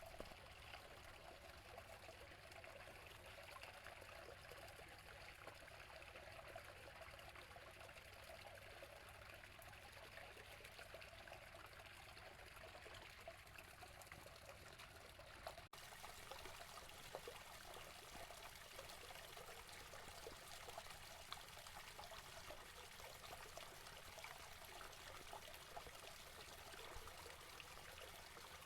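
Water from a natural spring trickling and flowing steadily, faint. The sound breaks off for an instant just over halfway through.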